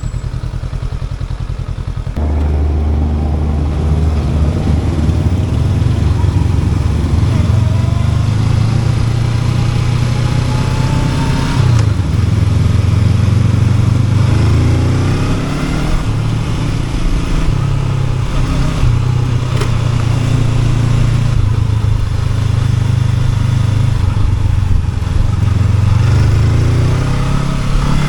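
Honda NX500's parallel-twin engine running while ridden. It is quieter until about two seconds in, then pulls harder, with the revs rising and falling.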